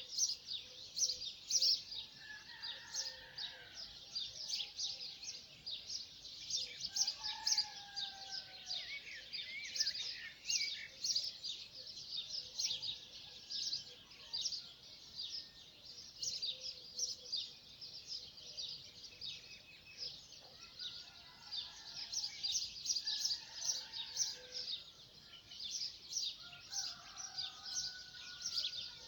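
Many small birds chirping and singing together in a dense, unbroken stream of high chirps, with lower whistled calls and short gliding notes now and then.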